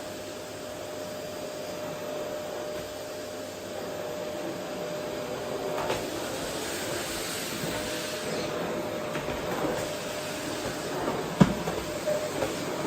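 Vacuum cleaner running steadily with a constant hum, getting slightly louder partway through. Near the end there is one sharp knock, followed by a few lighter clicks.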